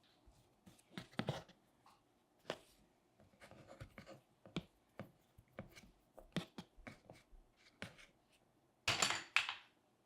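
Hands working modeling clay with sculpting tools: irregular soft taps, clicks and short scrapes, with a louder, longer scraping rustle about nine seconds in.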